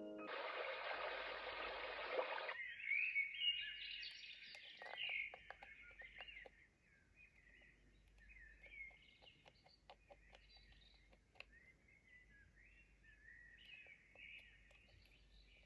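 White-noise sound machine playing its sounds: an even hiss for about two seconds that cuts off suddenly, then a birdsong track of chirps and twitters that grows fainter.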